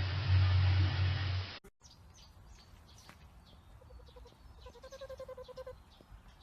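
A loud low rumbling noise that cuts off suddenly about a second and a half in. After it come faint bird chirps and, near the end, one held pitched call lasting about a second.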